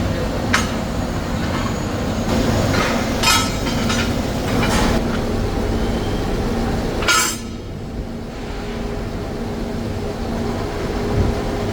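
Workshop machinery running with a steady hum, broken by sharp metallic clanks about four times.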